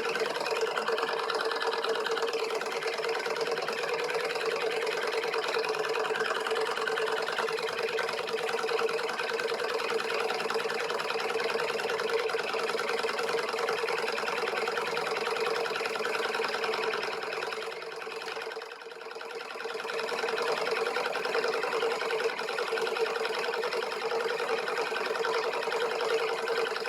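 Homemade beta-type Stirling engine running: a steady, fast mechanical clatter over a constant hum, dipping briefly in loudness about two-thirds of the way through.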